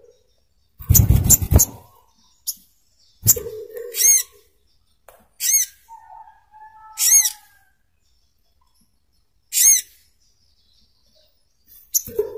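A sogok ontong (burung kelapa, the brown-throated sunbird) giving short, sharp, high calls, about four of them one to two seconds apart. A loud rustling thump comes about a second in.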